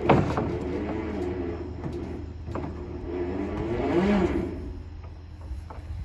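Electric winch pulling a truck onto a trailer: a sharp clunk at the start, then the motor whining under load, its pitch rising and falling, loudest about four seconds in.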